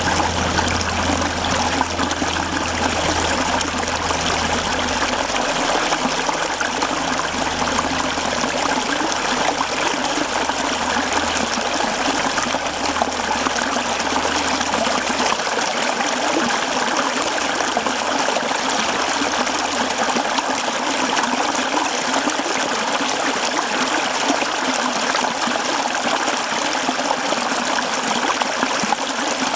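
Mountain stream flowing over rocks: a steady rush and trickle of running water. A low hum underneath fades out about halfway through.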